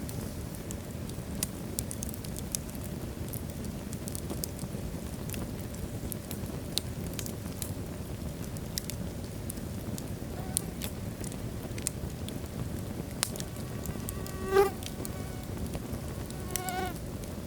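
Wood fire burning in a fireplace: a steady low rush of flame with scattered sharp crackles. Near the end come two short, high whines, the first the loudest sound.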